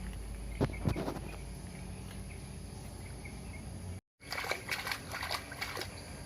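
Plastic toy vehicles knocking and clattering as they are handled during washing, a couple of knocks about a second in and a quicker run of them in the second half, over a steady outdoor background with faint high chirps.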